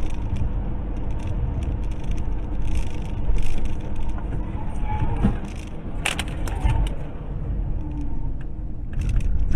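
Car driving noise picked up by a dashcam: a steady low rumble of engine and tyres, with a sharp knock about six seconds in.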